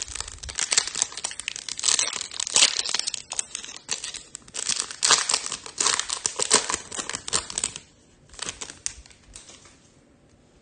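Foil wrapper of a 2021 Topps Chrome Formula 1 card pack crinkling and tearing as it is opened, with dense crackling for about eight seconds, a short burst after, then quiet.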